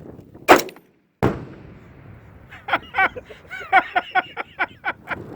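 A .308 rifle shot, then under a second later the boom of 10 lb of Tannerite packed in a dishwasher detonating, with a long rumbling fade. Excited shouting follows.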